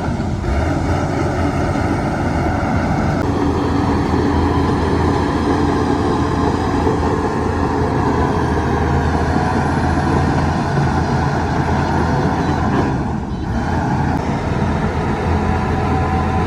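Heavy earthmoving machinery's diesel engine running steadily at work, loud and continuous. Its tone shifts about three seconds in and dips briefly near the end.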